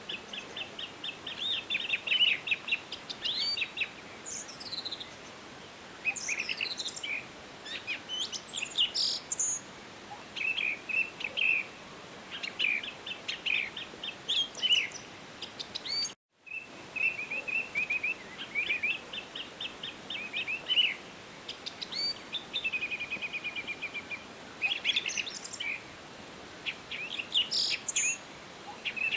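Forest birds singing: overlapping bursts of quick repeated chirps and trills, with some fast sweeping notes, over a faint steady background hiss. About halfway through the sound cuts out completely for a fraction of a second and then resumes.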